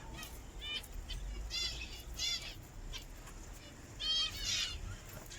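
Pet budgerigars and cockatiels giving repeated short, bending chirps. The loudest two calls come close together about four seconds in.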